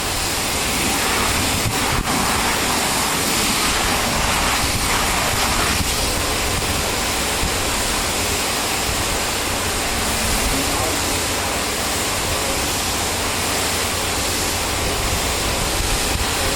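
Pressure washer spraying a jet of water or soap onto farm equipment: a loud, steady hiss that never lets up.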